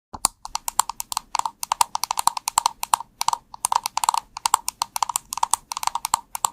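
Computer keyboard being typed on fast and steadily, a dense run of key clicks and clacks, many keystrokes a second.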